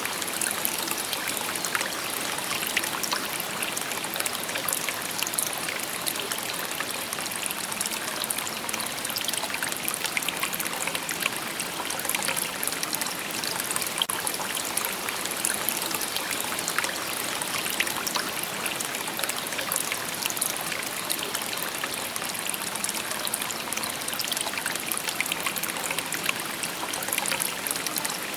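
Shallow river babbling steadily over stones, with a busy patter of small splashes and trickles.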